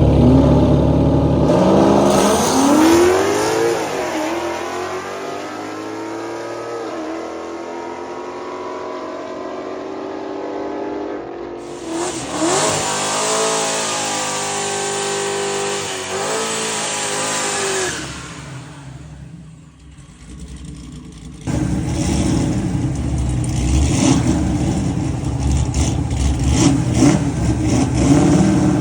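Drag-race car engines accelerating hard, their pitch climbing and stepping up through the gears, then fading. About three-quarters of the way in, the sound switches abruptly to a loud car engine running close by.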